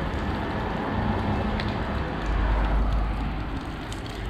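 Soft-wash spray from a 12-volt pump rig hissing steadily as the stream hits the wall, weak because the pump has lost pressure. A low rumble swells about halfway through.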